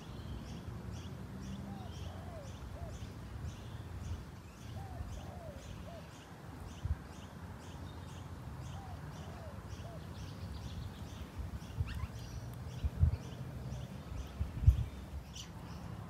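Birds outdoors: one bird chirps steadily, about twice a second, while another gives short lower calls in groups of three every few seconds. Under them runs a low rumble, and a few dull thumps come late on, the loudest near the end.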